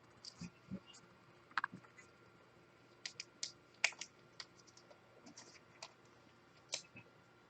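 Faint, irregular light clicks and taps of trading cards being handled between pulls: cards and card holders knocking and snapping together, about a dozen scattered ticks.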